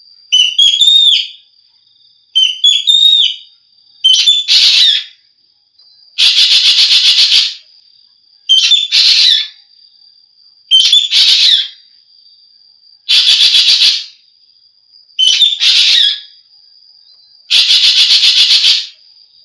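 Racket-tailed treepie (ekek geling) calling over and over, about one call every two seconds. Short clusters of bent, whistled notes alternate with longer harsh, rasping calls. A thin, steady high whine runs underneath.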